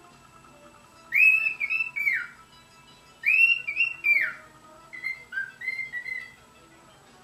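Cockatiel singing a whistled song: two loud phrases of rising and falling notes, then a softer string of shorter notes.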